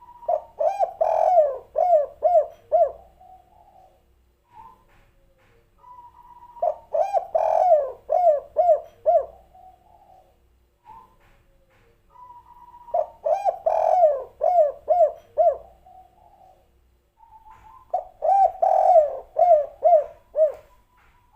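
Spotted dove (tekukur) singing the 'kuk 3' coo song: four phrases about six seconds apart, each a soft higher lead-in note followed by a quick run of five or six rhythmic coos.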